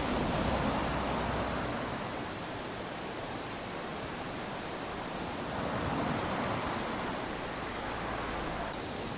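Small waves lapping onto a sandy beach: a steady wash of surf that swells twice, once near the start and again about six seconds in.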